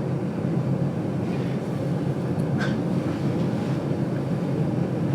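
Steady rumble of the GoldenPass Belle Époque train running along the rails, heard from inside the vintage carriage, with a brief faint high squeak about two and a half seconds in.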